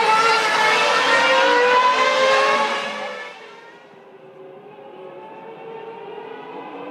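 Formula One V10 racing engines at full throttle, rising in pitch as they accelerate, then fading away about three seconds in. A fainter engine, also rising in pitch, builds again near the end.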